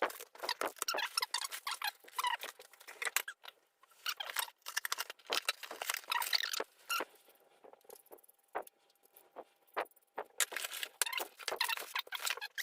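Packaging rustling and crinkling as a parcel is unwrapped: irregular bursts of crackling and scratching, with a quieter stretch partway through.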